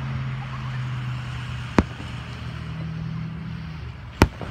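Two sharp aerial firework shell bursts, about two and a half seconds apart, over the steady low hum of an idling vehicle engine.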